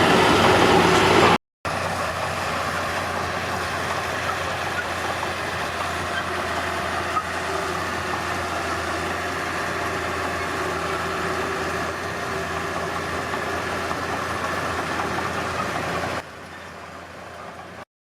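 Heavy diesel machinery engine running steadily, with a constant low hum. It comes in edited pieces: a louder stretch, a brief cut to silence after about a second and a half, a long even stretch, then a quieter one near the end.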